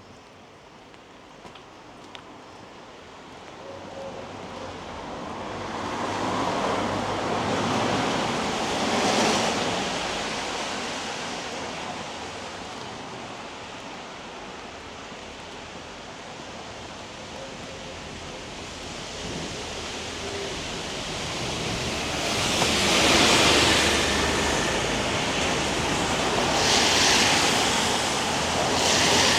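Vehicles passing on a wet road, their tyre hiss swelling and fading: one pass about eight or nine seconds in, then several more in quick succession near the end, over a steady hiss of light rain.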